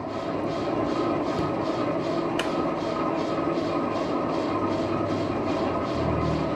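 Lathe turning a truck wheel rim: steady machining noise with a regular beat about two to three times a second, and one sharp tick a little over two seconds in.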